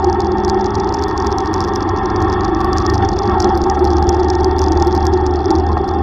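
Yamaha YTX125 tricycle's single-cylinder 125 cc four-stroke engine running steadily while riding, with an irregular crackling hiss over the steady rumble.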